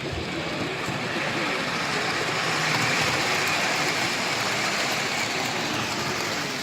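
Model train rolling past on the layout. It swells to its loudest about halfway through, then fades.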